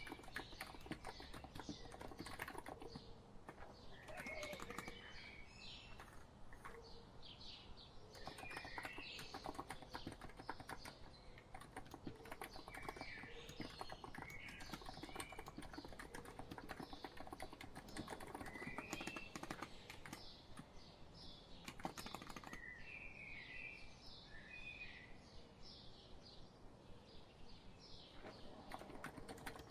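Steady typing on a COX Empress electro-capacitive (non-contact) keyboard: a continuous run of soft keystroke clicks. Small birds chirp now and then in the background.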